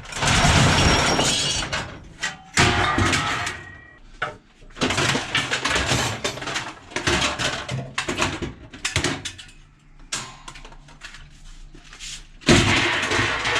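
Pieces of scrap metal clattering as they are handled and thrown onto sorted piles during scrap sorting: a string of irregular crashes and rattles, with a loud burst near the end.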